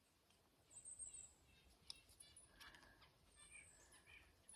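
Red-breasted and white-breasted nuthatches calling at the same time: faint, repeated short nasal notes, with a few high thin notes from other small birds in the flock.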